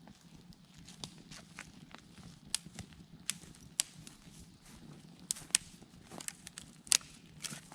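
Wood campfire crackling, with scattered sharp pops at irregular intervals, the loudest about five and a half and seven seconds in.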